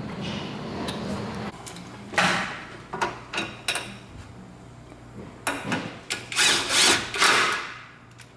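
A hand power tool, such as a drill or driver, running in short bursts: one about two seconds in, a few quick ones around three seconds, and a longer, louder run of bursts near the end.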